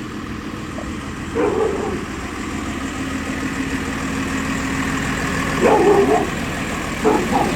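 Garbage truck engine running steadily, with a dog barking in short bouts three times: about a second and a half in, near six seconds, and near the end.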